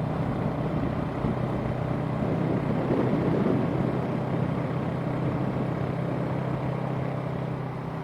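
Parallel-twin engine of a Yamaha YZF sport bike running at a steady cruise while riding, with a steady low engine note under a haze of wind noise.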